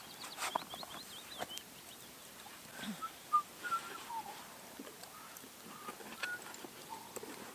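A small bird singing a short, rapid run of high notes, then a few scattered short chirps, with occasional light clicks.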